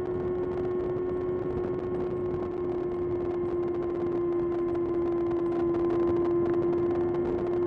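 Kawasaki ZX-6R's 636 cc inline-four engine running at a steady pitch while the bike cruises, the note dipping only slightly partway through.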